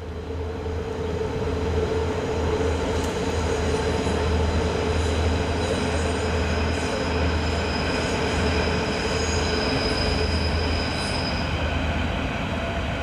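Berlin S-Bahn electric train running across the elevated Stadtbahn viaduct bridge: a steady loud rumble with a thin high-pitched tone over it that stops near the end.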